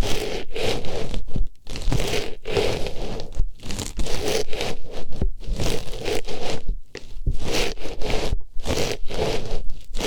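Artificial flower pushed into an ear and rubbed around, making rapid scratchy rustling and scraping strokes close up, with brief pauses every second or two.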